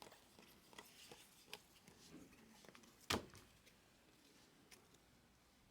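Near silence with faint rustles and ticks from baseball cards being handled and sorted, and one sharper click about three seconds in.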